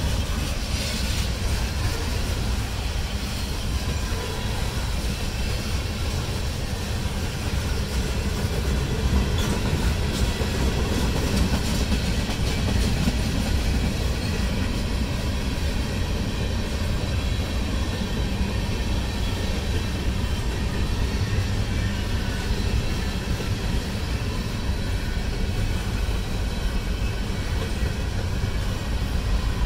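Mixed freight train's tank cars and container cars rolling past, steel wheels running on the rails. The sound is steady and loud, with most of it low down.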